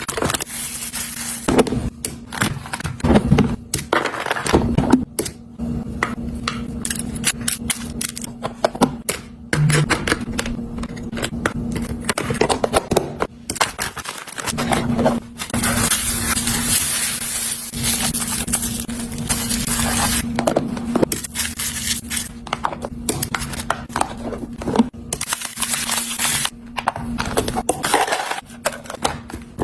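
Food packaging and containers being handled: many short clicks, taps and knocks of plastic and glass, with scraping and crinkling, and a steady low hum underneath much of the time.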